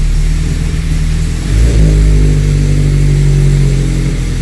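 Turbocharged Subaru BRZ flat-four engine idling on its first start after a turbo kit install, heard from the driver's seat. It is running unevenly and wants to stall. About a second and a half in it picks up and runs louder and steadier.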